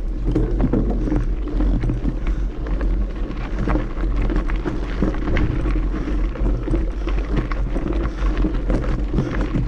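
Mountain bike grinding up a steep trail climb, its tyres and frame rattling and crunching over roots and loose gravel in many irregular clicks and knocks, over a steady low rumble on the microphone.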